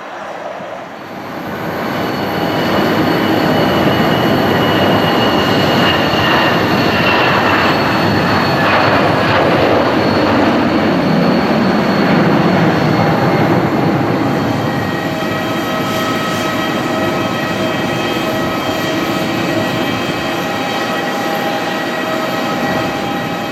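Airbus A320 jet engines passing close by: a loud rush swells in, drops in pitch as the airliner goes past, then settles into steady, high engine whine tones.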